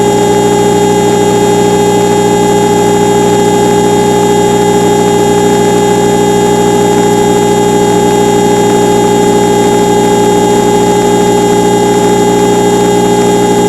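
Outdoor warning siren sounding a tornado alert as one steady, unbroken tone with strong overtones.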